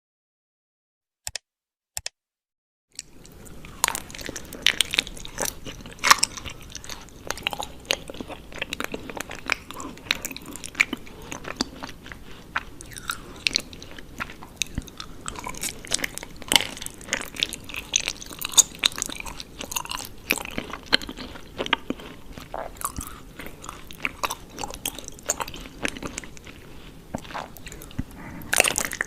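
Close-up chewing and biting of honeycomb, the wax crackling with many small wet clicks. It starts about three seconds in, after two brief sharp clicks.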